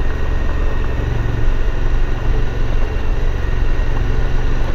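Suzuki V-Strom 1050's V-twin engine running steadily while the motorcycle is ridden, heard as a continuous low rumble with road and wind noise.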